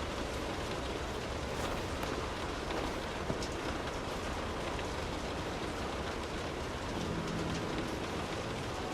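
Steady rain falling on street surfaces: an even hiss with scattered drop ticks. A faint low hum comes in briefly about seven seconds in.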